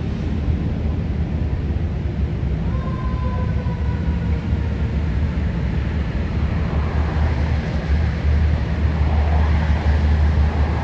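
Fire truck under way: a steady low rumble of engine and road noise, with a faint wailing siren tone sliding slowly down in pitch about three seconds in.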